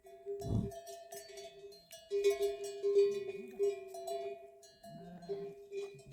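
Metal livestock bells clanking over and over, with a ringing tone that carries between the clinks and drops out briefly twice.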